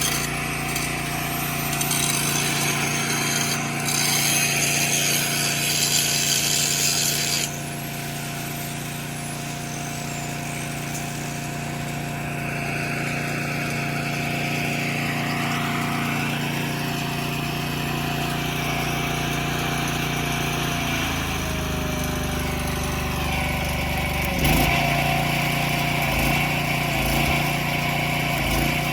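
Metalwork on a steel well pipe: a harsh, crackling power-tool noise that cuts off about seven seconds in, over a machine engine that runs steadily throughout and drops in pitch about two-thirds of the way through.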